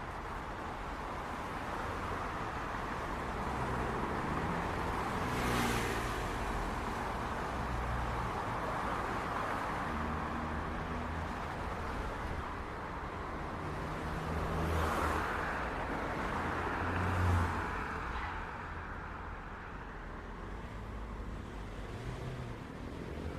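City street traffic: a steady rumble of engines and tyre noise, with vehicles passing close by about five seconds in, near the middle, and again a couple of seconds later.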